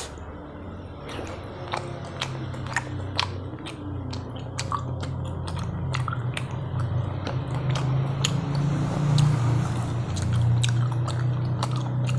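A person chewing and biting food close to the microphone, with many sharp, irregular wet mouth clicks and a low steady hum underneath.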